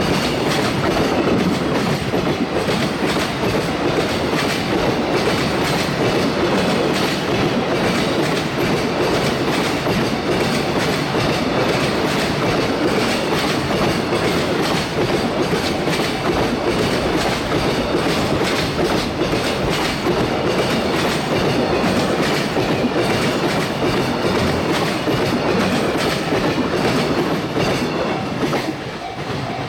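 A train passing close by a level crossing: a steady loud rumble with wheels clacking over the rail joints, easing slightly near the end.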